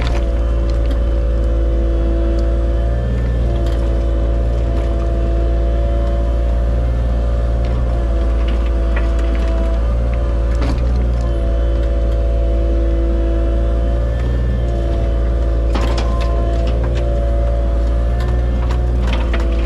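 Compact excavator's diesel engine running steadily under working load. Its tone shifts in pitch every few seconds as the hydraulics work the arm and bucket, with a few sharp knocks and rattles.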